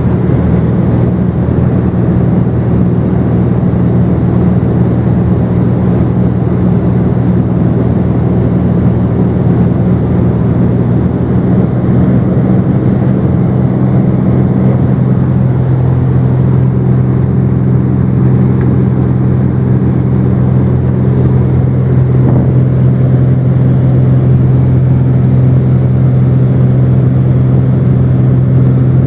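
Cessna 210's piston engine and propeller running steadily at cruise, loud and continuous as heard inside the cabin, its note shifting slightly about halfway through.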